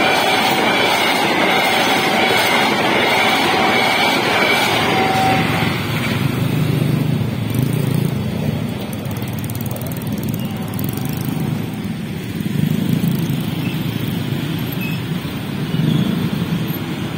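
Passenger train carriages rushing past at speed over a level crossing, the rail noise dying away about six seconds in. Motorcycle engines then idle and rev as the waiting riders pull across the tracks.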